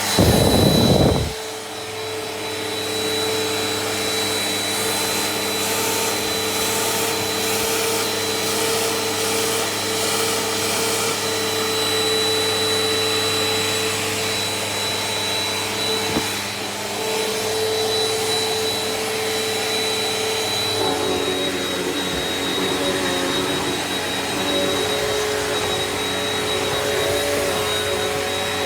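Bissell PowerForce Helix upright vacuum running steadily with a high whine over its motor hum, after a loud burst of noise in the first second or so. About two-thirds of the way through, the motor's pitch shifts slightly. Its owner says it has an airflow problem that keeps its suction from being the best.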